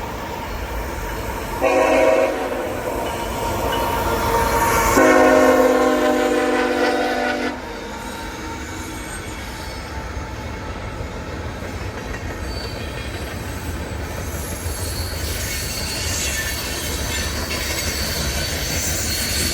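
Freight train's locomotive horn blowing for a grade crossing: a blast starts about two seconds in, grows louder about five seconds in and cuts off near the eight-second mark. The train then rumbles past, with a high wheel squeal setting in near the end.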